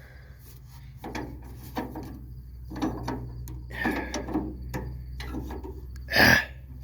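Irregular metal clunks, clicks and rattles of levers, handles and latches being worked inside an old dump truck's cab, with one louder scrape near the end.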